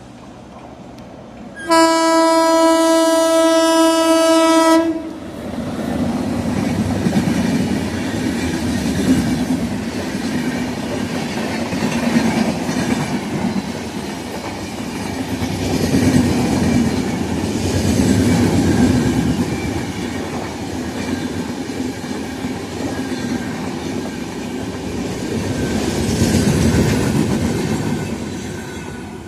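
A train horn sounds one long steady note for about three seconds. Then a train runs past with wheel rumble and the clickety-clack of wheels over rail joints, swelling and easing several times.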